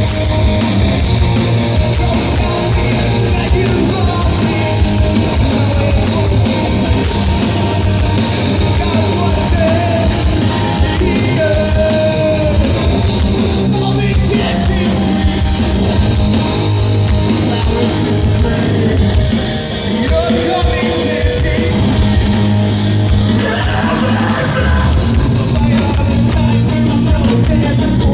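Live heavy rock band playing a song at full volume, with guitars, drums and sung vocals.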